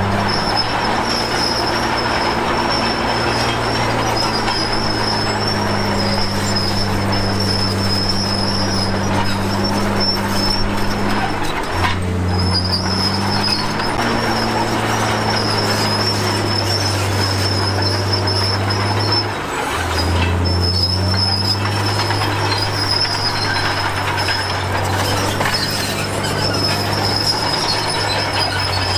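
Komatsu D53P crawler bulldozer working: a steady diesel engine drone whose pitch shifts about twelve and again about twenty seconds in, over a high, steady squeal from the steel tracks.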